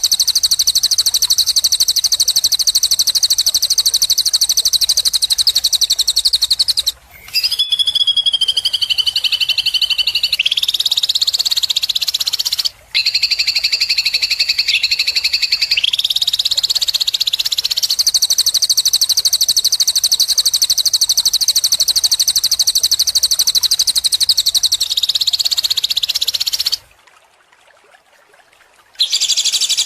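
Songbird song: long, very fast, high-pitched buzzing trills held for several seconds at a time, stepping to new pitches a few times, with brief breaks about 7 and 13 seconds in and a pause of about two seconds near the end.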